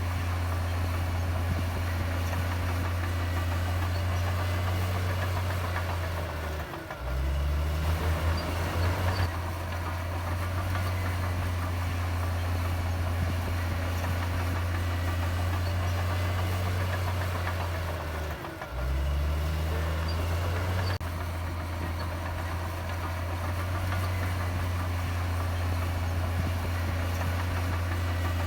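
Heavy diesel machinery engine running steadily with a deep hum. It drops briefly twice, about 7 and 19 seconds in, and picks up again each time, pulsing unevenly for a couple of seconds after the first dip.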